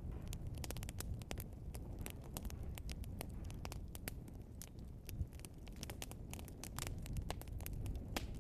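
Burning log fire crackling and popping: many irregular sharp pops, several a second, over a steady low rumble of the flames.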